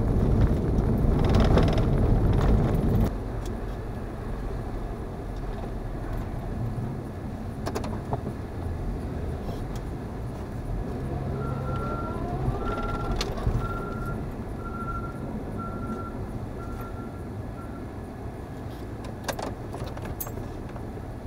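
A car driving on snowy roads, its road and engine noise dropping suddenly about three seconds in and then running lower. Midway, a vehicle's backup alarm beeps about seven times at an even pace.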